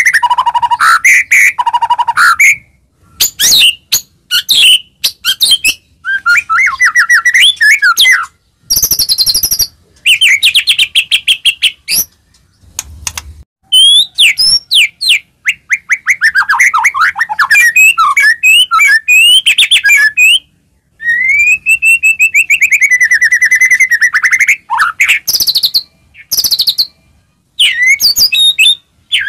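White-rumped shama (murai batu) singing loudly: a varied song of rapid trills and sliding whistles, given in phrases of a few seconds with short pauses between them.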